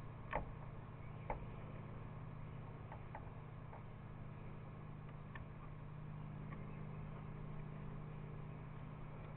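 Faint, scattered light clicks and taps of small motor parts being handled and fitted back together, over a steady low background hum.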